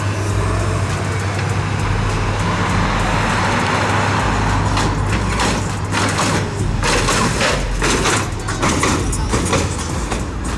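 Street traffic of cruising cars: engines running with a steady low hum under a wash of road noise, and scattered short knocks in the second half.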